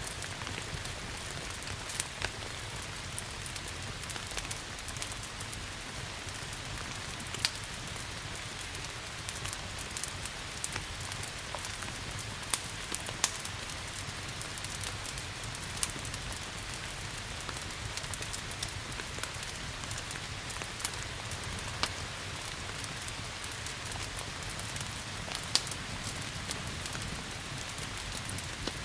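Steady rain hiss with a low rumble underneath, dotted with frequent irregular sharp pops and crackles from a wood fire.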